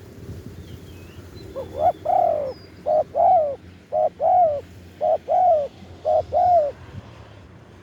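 Spotted dove cooing: five calls about a second apart, each a short note followed by a longer, arched coo. Faint chirps from other small birds sound in the background.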